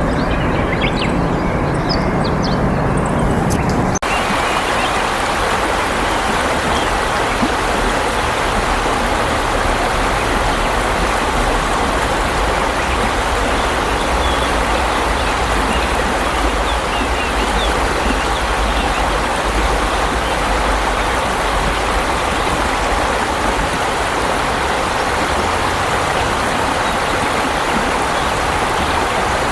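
Steady rush of flowing water, like a stream or small weir, running evenly after an abrupt cut about four seconds in. Before the cut there is a low traffic-like rumble with a few brief bird chirps.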